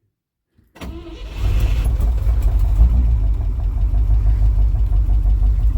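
Willys M-38 jeep's four-cylinder flathead engine idling steadily with an even low pulse, freshly cold-started on the choke, which the owner thinks needs more air. It comes in about a second in after a moment of silence and settles into its idle.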